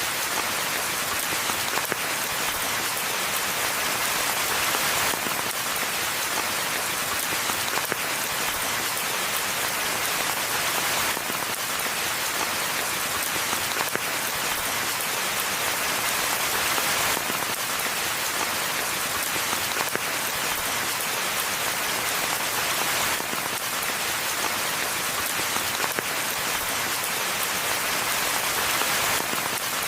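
Rain falling steadily in a forest: an even hiss of many drops.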